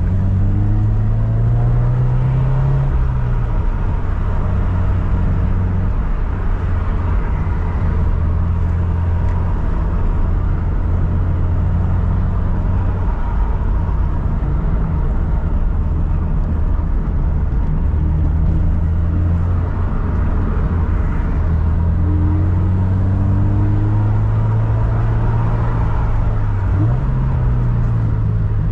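Toyota 86's 2.0-litre flat-four boxer engine running while the car is driven, with steady road noise. The engine note climbs and falls in the first few seconds, climbs again through the second half, and drops back sharply near the end.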